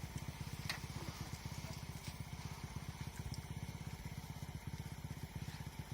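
Motorcycle engine running steadily at low speed, its exhaust beat a rapid, even pulse, with a faint click or two.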